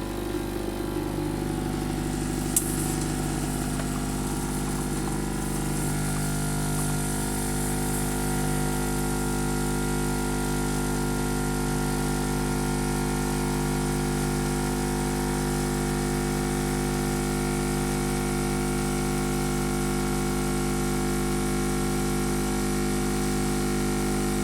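Dolce Gusto Mini Me capsule coffee machine's vibration pump running steadily as it brews a hot chocolate capsule: a constant buzzing hum, with one sharp click about two and a half seconds in.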